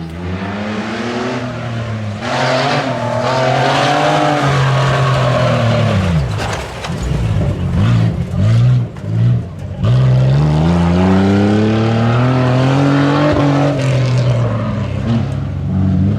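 Tuff truck engine revving through an off-road course. Its pitch climbs and falls several times, with a few quick throttle blips in the middle followed by a long rising rev that drops away near the end.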